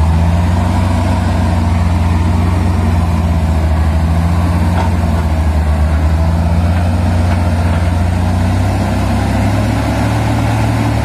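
Heavy truck's diesel engine running close by at raised, steady revs.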